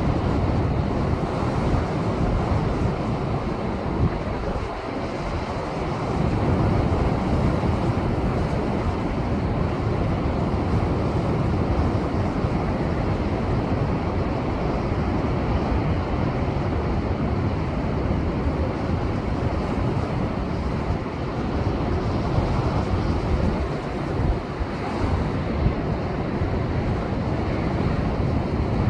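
Heavy post-typhoon surf breaking against rocks, a continuous loud wash of waves with wind buffeting the microphone.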